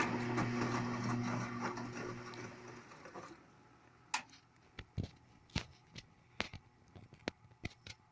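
Bosch front-loading washing machine in its wash cycle: the motor hums as it turns the drum for about three seconds, then winds down, and scattered light clicks and knocks follow in the stillness.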